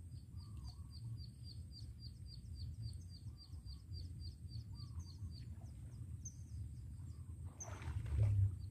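A bird chirping, with short high notes repeated about three times a second that stop about six seconds in, and a few lower calls scattered among them. A steady low rumble runs underneath, and a short noisy burst comes near the end.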